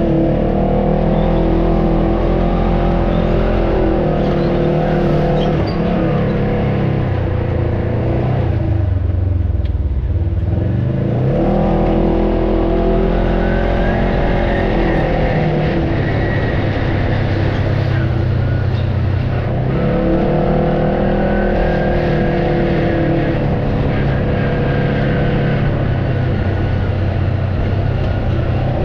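Off-road vehicle engine running under load on a trail. Its pitch drops as the throttle eases off, about a third of the way in and again about two-thirds of the way in, then climbs back each time.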